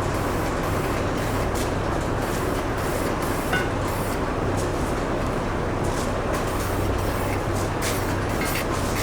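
Aerosol can of wheel paint spraying, short hissing passes, over a steady low hum.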